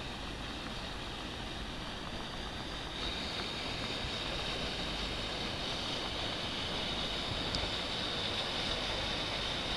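Steady wind rumble on the microphone mixed with the wash of sea water, with a high steady hiss that grows louder about three seconds in.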